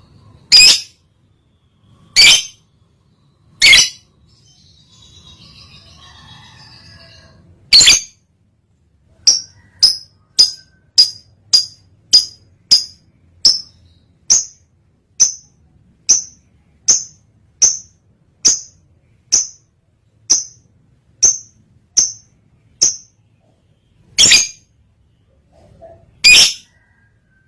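Lovebird in breeding condition giving short, sharp, high-pitched chirping calls: a few spaced single calls, then a steady run of about two calls a second for some fifteen seconds, then two more loud calls near the end. Softer chattering can be heard about four seconds in.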